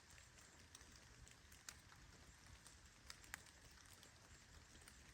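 Light rain falling: a faint steady hiss with scattered sharp ticks of single drops striking close by.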